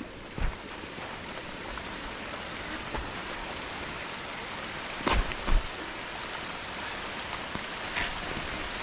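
Steady hiss of rain and wet riding noise on a downhill mountain bike ride, with two sharp knocks about five seconds in, half a second apart.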